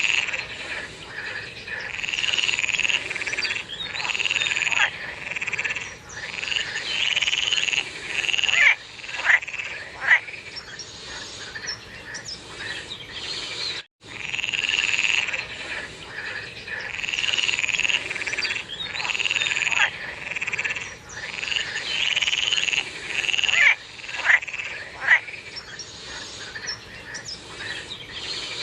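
A chorus of frogs croaking, with overlapping repeated calls and a few sharper, louder calls standing out. There is a momentary cut-out about halfway through, after which the same run of calls repeats.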